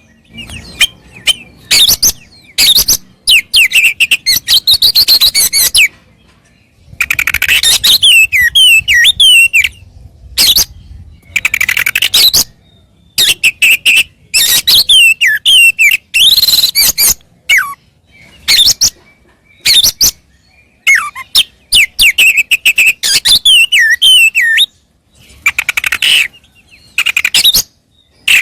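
Oriental magpie-robin singing loudly in short bursts of quick, sweeping whistles and chattering phrases, separated by brief pauses.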